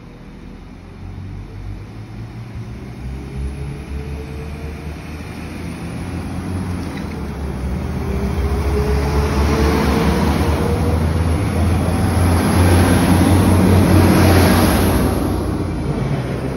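Northern Class 195 diesel multiple unit running alongside the platform, a deep engine and traction drone building steadily as the carriages come close and easing off near the end. A faint whine rises slowly in pitch through the first half.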